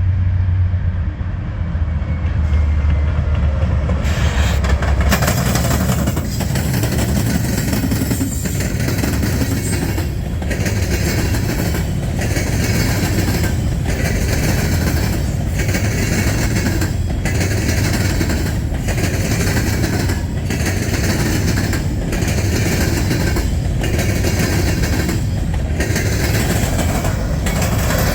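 Norfolk Southern freight train passing: a deep locomotive engine rumble for the first few seconds, then a long run of cars rolling by with a steady rushing clatter of wheels on rail that dips briefly about every second and a half.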